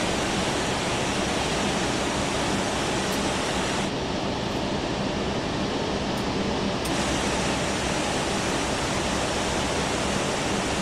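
Steady rushing noise in a simulated Airbus A380 cockpit while taxiing, with a low hum underneath. A brighter hiss layer cuts out abruptly about four seconds in and comes back abruptly about three seconds later.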